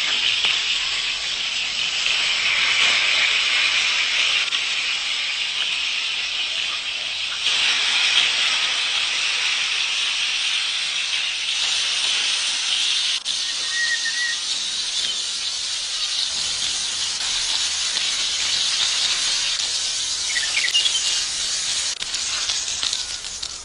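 Chicken vegetable kababs frying in hot oil in a pan: a steady sizzle.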